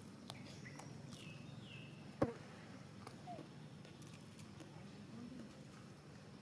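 Two short, high-pitched cries that fall in pitch, from a baby monkey, about one to two seconds in, followed by a single sharp click. Otherwise faint outdoor background.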